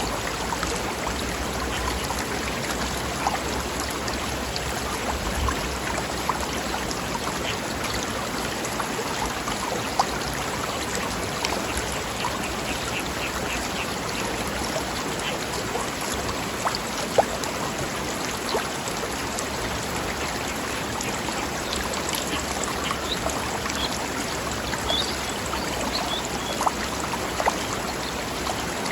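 Forest stream babbling over rocks: a steady rush of running water with scattered small splashes.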